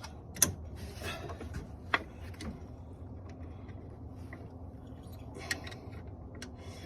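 Hand tools and parts being handled during a repair: three sharp clicks, the first two about a second and a half apart and the third near five and a half seconds in, among fainter ticks and rustling over a low steady hum.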